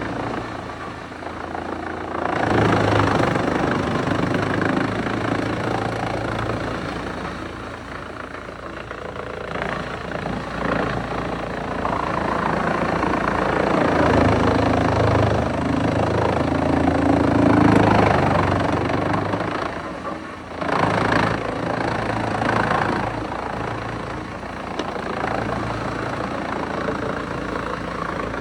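Large wood chipper running and chipping wood: a steady engine hum under a rough grinding noise that swells and eases as material is fed through, with a short drop in level about twenty seconds in.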